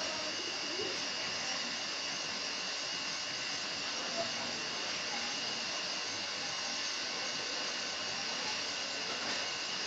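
Steady hiss with a faint high-pitched whine in it.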